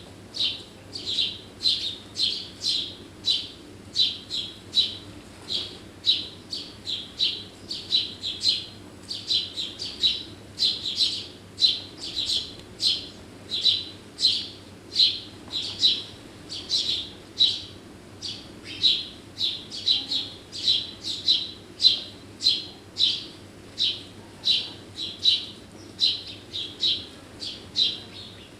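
A small songbird chirping over and over in a steady rhythm: short high chirps, often in twos or threes, about two to three a second.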